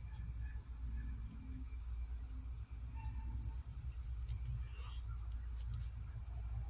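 Steady high-pitched trilling of insects, over a low rumble, with one short falling chirp about three and a half seconds in.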